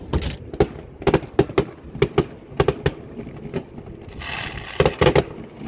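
Fireworks display: a dozen or so aerial shells bursting in an irregular series of sharp bangs, joined from about four seconds in by a dense crackling hiss from crackling stars.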